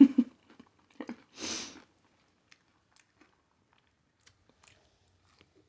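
A person chewing hot Cheeto-coated fried pickles close to the microphone, with a short crunchy burst about a second and a half in, then faint wet clicks of chewing.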